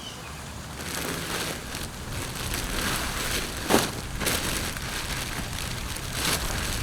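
Garden mulch rustling and crackling as it is scattered and spread by hand, with a few short sharper rustles.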